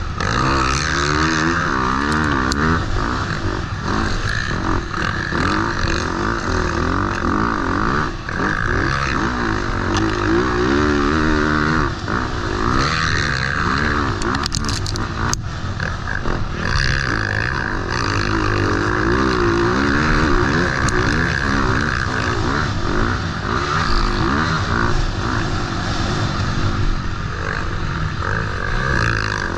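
Motocross bike engine heard from on board while riding, its pitch rising and falling again and again as the throttle is opened and closed through the corners and ruts of a sand track.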